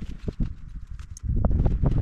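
Irregular knocks, clicks and rustling, with a low wind rumble on the microphone that gets louder partway through.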